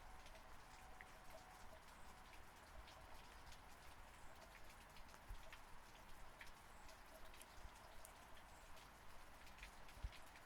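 Faint steady rain: an even hiss scattered with many separate drops ticking.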